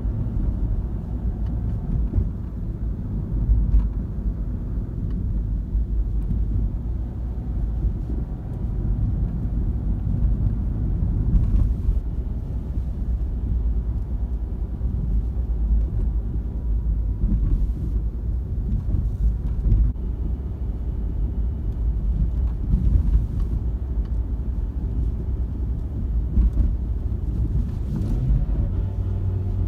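Suzuki Swift 1.3 being driven, heard from inside the cabin: a steady low engine and road rumble.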